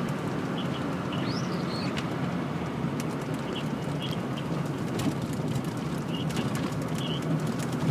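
Steady cabin noise of a vehicle driving on snowy streets, engine and road noise, with a few faint short chirps or squeaks scattered through it.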